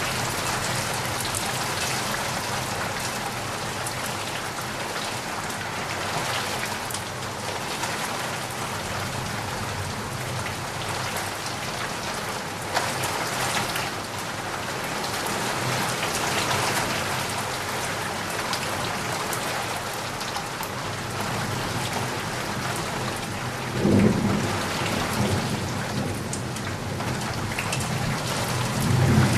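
Heavy rain falling steadily and densely, with low rumbles of thunder about 24 seconds in and again near the end.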